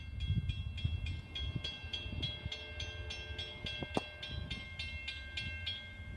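Railroad grade-crossing bell ringing rapidly, about three to four strikes a second, stopping shortly before the end, over a low rumble of the passing train. A single sharp click about four seconds in.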